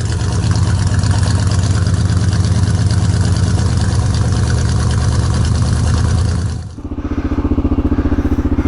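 Kawasaki KLR650 single-cylinder motorcycle engine running steadily. About seven seconds in, the sound cuts abruptly to the engine idling with an even pulse.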